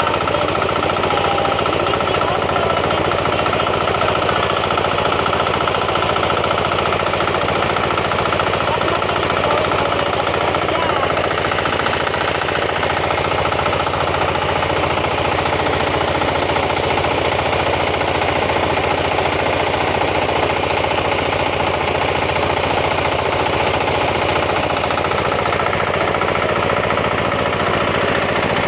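Small engine running steadily at a fast, even beat, driving the fan of a rice winnowing blower.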